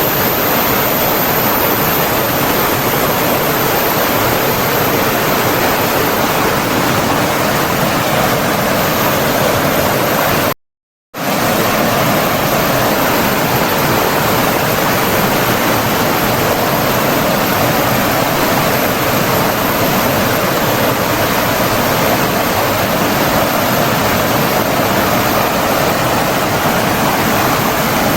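Flowing water rushing steadily, like a stream or small waterfall. It cuts out completely for about half a second roughly ten seconds in, then comes straight back.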